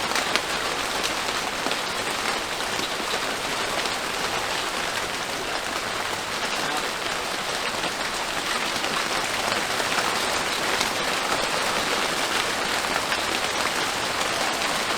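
Heavy rain falling steadily, a dense even hiss with the patter of individual drops.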